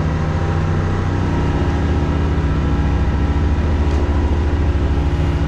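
Skiff's motor running steadily under way, a low engine hum whose pitch rises slightly about a second in.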